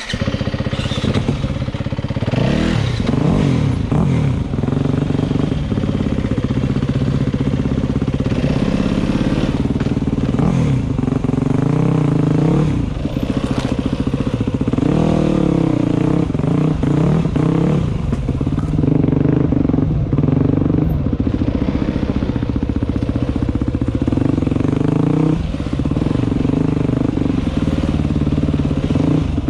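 Dirt bike engine being ridden, its pitch rising and falling again and again as the throttle is opened and eased off.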